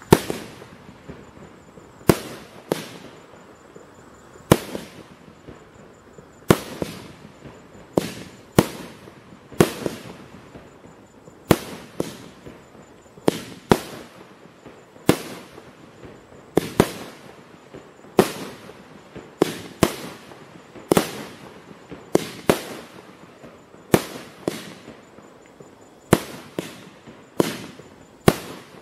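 A 25-shot, 30 mm fireworks battery (cake) firing shot after shot, each shot a sharp bang breaking into a burst of stars. The bangs come about once a second, some in quick pairs, each with a short echoing tail.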